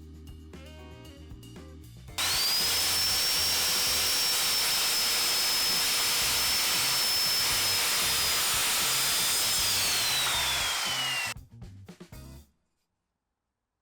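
Budget circular saw snapping up to full speed and cutting through 18 mm MDF: a loud cutting noise with a steady high motor whine over it. Near the end the whine drops in pitch as the saw slows, and then the sound cuts off abruptly.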